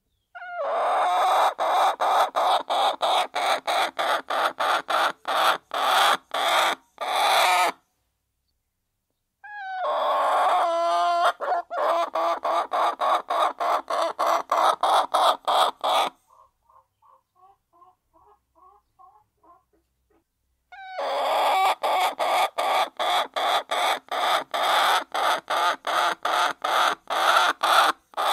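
A flock of hens clucking and calling as they feed, a loud dense chorus that cuts in and out several times a second. It stops for about a second and a half, returns with a single hen's pitched call, then drops to a few faint soft clucks for several seconds before the full chorus resumes.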